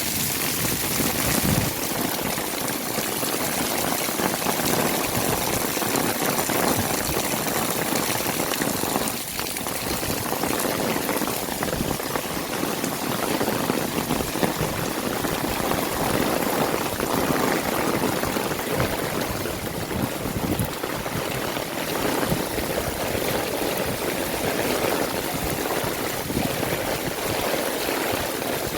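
Heavy rain falling steadily, with water pouring and running.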